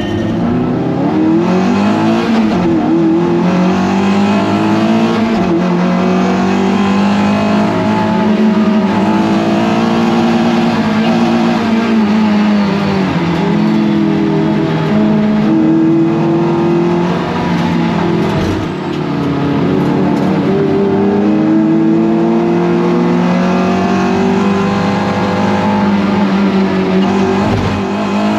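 Toyota MR2 race car's engine at racing speed in a race start. Its pitch climbs hard through the gears and drops back at each shift and under braking, most clearly about 12 and 18 seconds in.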